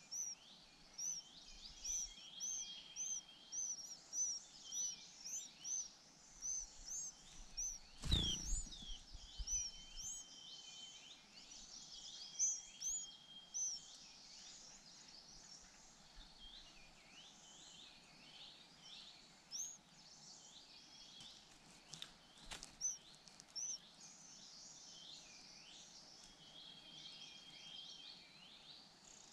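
White-eye nestlings begging for food with short, high chirps repeated about twice a second, thinning out after the middle, with other birds calling faintly behind. A single thump comes about eight seconds in.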